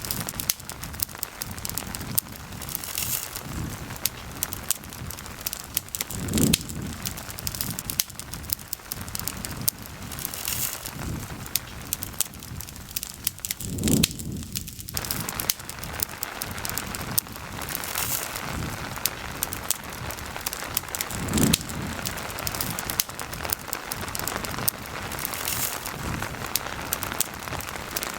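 Steady rain falling with a campfire crackling and snapping. A short low rumble comes back about every seven to eight seconds.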